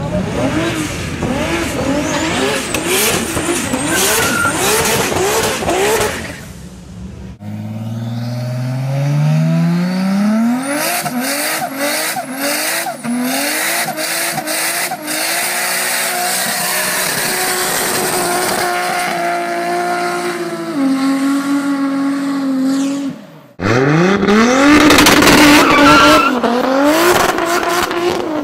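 Toyota Supra Mk4 turbocharged straight-six engines, heard in three short clips. First the engine revs hard with quick rises and falls and sharp crackles. Then it revs up and is held bouncing at high revs during a smoky burnout, with tyre squeal. Last a hard acceleration climbs steeply in pitch, dipping once midway.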